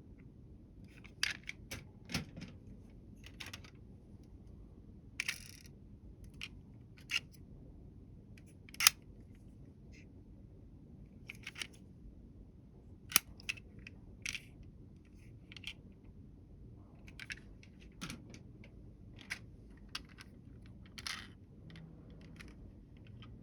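Irregular light clicks and taps of small hard miniature toy vehicles being handled and set down, about twenty spread unevenly, the sharpest about nine and thirteen seconds in.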